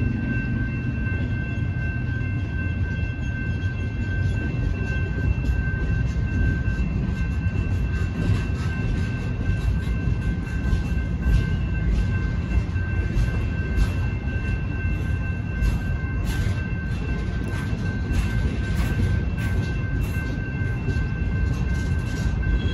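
Empty flatcars and centerbeam lumber cars of a freight train rolling through a grade crossing: a steady low rumble with repeated clacks of wheels over the crossing, and a steady high tone held throughout.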